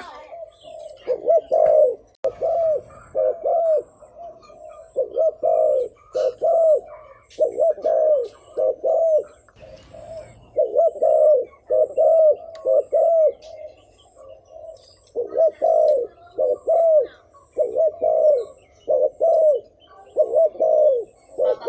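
Spotted dove cooing over and over: low, arching coos in quick groups of two to four, with short pauses between groups.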